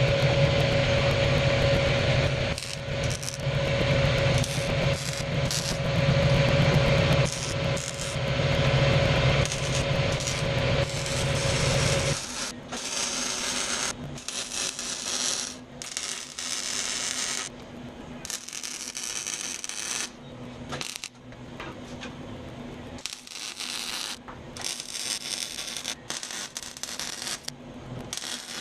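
Metal-shop work: a machine runs steadily with a low hum and a held tone and stops about twelve seconds in, followed by intermittent metallic clinking and scraping of steel parts.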